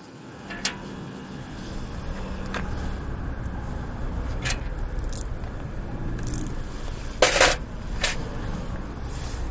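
A few sharp metallic clinks and knocks, the loudest a short clatter about seven seconds in, over a steady low hum: light metal parts being handled.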